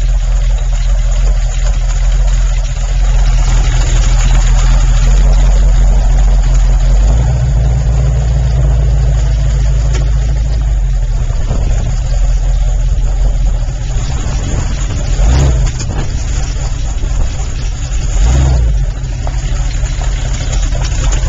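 Oldsmobile Toronado V8 engine of a trike running, a steady loud low rumble that swells a few seconds in, with two short louder surges of throttle in the last third.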